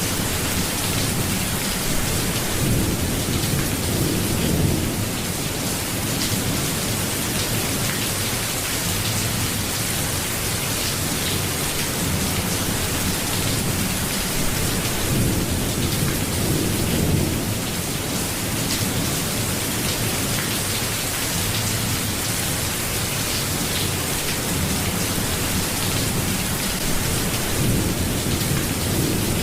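Steady rain falling in an even hiss, with low rumbles swelling up three times, about twelve seconds apart.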